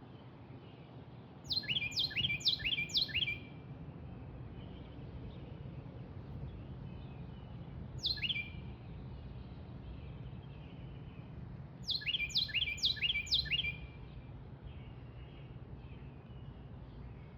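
A bird singing: two quick phrases of four or five falling whistled notes, about ten seconds apart, with a single note between them, over a steady low background rumble.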